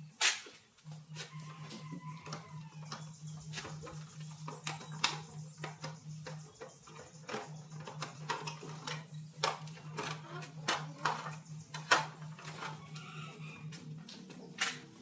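Irregular clicks and knocks of hand tools and small metal parts being handled in motorcycle carburetor repair work, over a low pulsing hum that stops briefly about halfway through.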